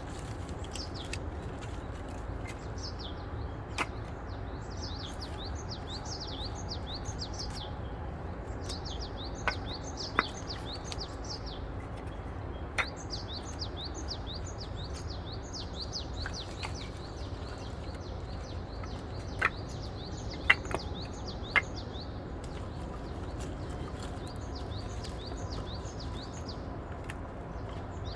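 Steady low hum under continuous rapid, high-pitched chirping, with about eight sharp clicks or knocks scattered through.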